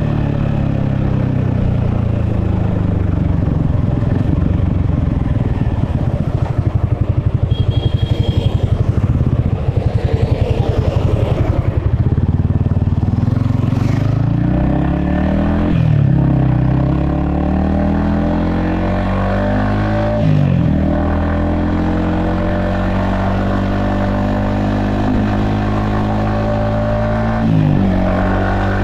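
Yamaha XSR155's 155 cc single-cylinder engine heard from the rider's helmet. The revs fall as the bike slows and the engine pulses low for a few seconds. It then pulls away, its pitch climbing and dropping sharply at three upshifts.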